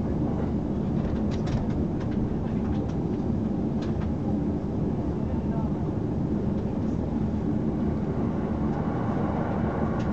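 Interior of a JR commuter electric train running at speed: a steady rumble of wheels on rail and the car body, with a few light clicks in the first few seconds.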